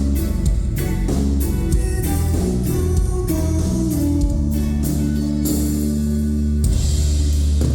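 Live rock band playing: electric guitar over bass and a drum kit keeping a steady beat.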